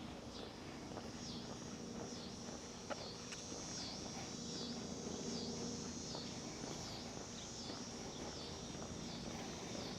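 Evening insect chorus: a steady high buzz with a repeated dipping chirp about one and a half times a second, with a few soft footsteps.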